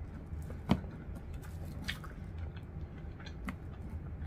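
A person chewing and biting crispy fried chicken: soft mouth sounds broken by scattered sharp crunchy clicks, the loudest a little under a second in. A low steady hum sits underneath.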